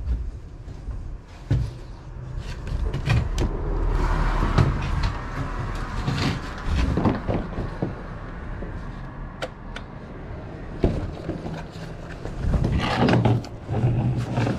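Irregular knocks and clunks, several close together, over a low steady hum.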